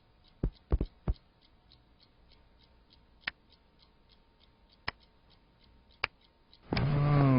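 A few light knocks and clicks over a faint, regular ticking, then near the end a domestic cat starts a loud, low meow.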